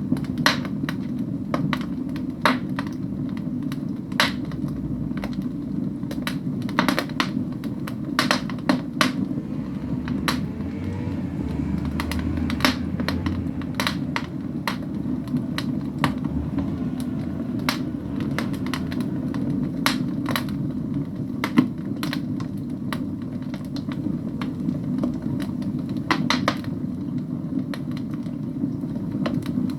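Firewood burning in a fireplace: irregular sharp crackles and pops of the logs over a steady low rush of the flames.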